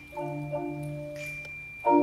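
Percussion ensemble playing mallet-percussion chords: sustained chords struck twice, shortly after the start and near the end, each held over a low bass note, with a faint high steady tone joining partway through.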